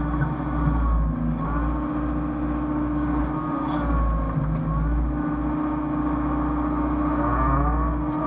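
Hyundai excavator's diesel engine running steadily under load, with a hydraulic whine whose pitch dips and rises again every three seconds or so as it works.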